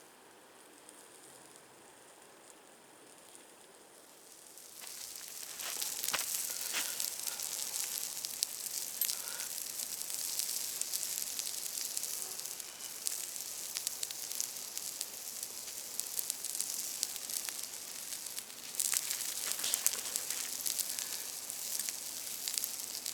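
Meat sizzling over a wood campfire, with many sharp pops and crackles, as the fat boils out of it. It is quiet at first; the sizzle sets in about five seconds in and then holds steady.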